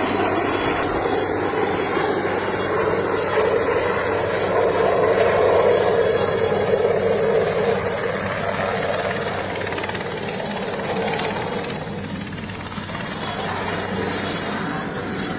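Army helicopter running: a loud, steady rush of rotor and engine noise with a high turbine whine held on one pitch, easing slightly about twelve seconds in.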